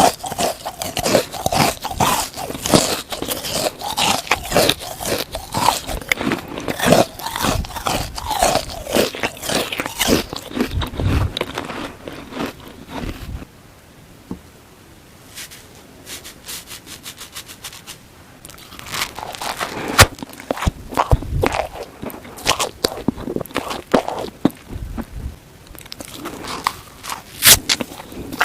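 Close-miked biting and chewing of a frozen watermelon sponge: dense crunching and crackling. About halfway through it goes quiet for several seconds. Then the chewing starts again on the same kind of sponge, now made soapy with toothpaste.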